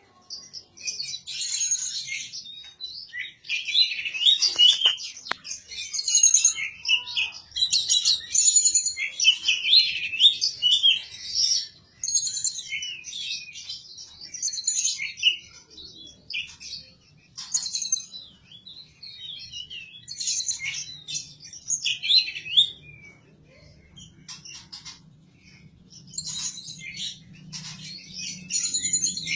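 A songbird singing a fast, varied song of rapid chirps and trills in long phrases, broken by a few short pauses.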